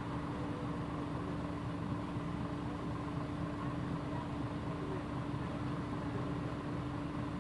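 Mitsubishi Fuso PJ-MP35JM city bus's diesel engine running steadily, an even hum with a constant tone and no changes in pitch.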